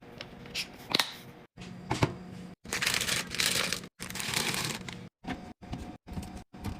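Packaging and containers being handled for a fridge restock: a few sharp clicks and knocks, then two longer stretches of plastic packaging crinkling, then short snippets broken by abrupt silences.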